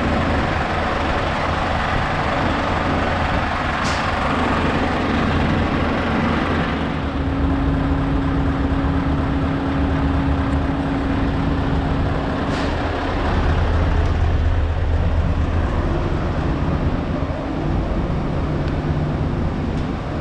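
Heavy truck engine running steadily with a low rumble; a steady hum joins in the middle for a few seconds, and there are two short sharp clicks about four and twelve and a half seconds in.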